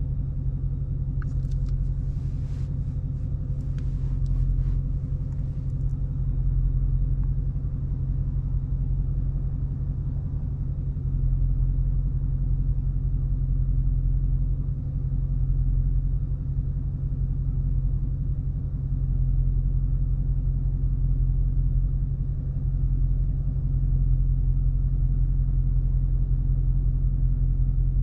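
Dodge Charger R/T's 5.7-litre HEMI V8 running steadily while driving, a deep low rumble with small swells in level. A few faint ticks come in the first several seconds.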